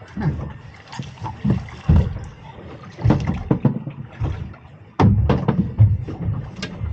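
Irregular knocks, thumps and rattles on a small boat as a freshly caught eel is handled and unhooked, with the heaviest cluster of thumps about five seconds in.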